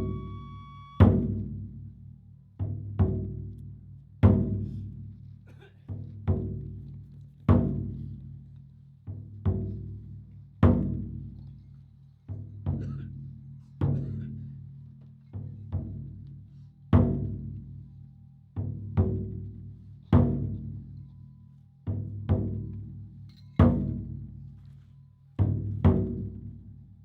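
Large taiko drum struck in slow, heavy single beats, roughly one every second and a half, some doubled, each deep boom ringing out long before the next. A steady high tone stops about a second in.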